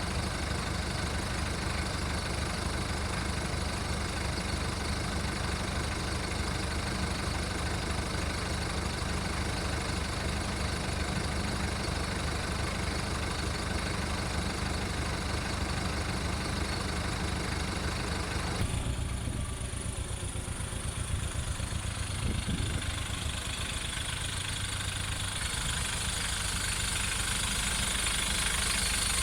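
VW Golf mk1's 1.9-litre turbodiesel idling roughly while warming up after a cold start from winter storage. About two-thirds of the way through, the sound abruptly turns duller and a little quieter, with the low idle rhythm still there.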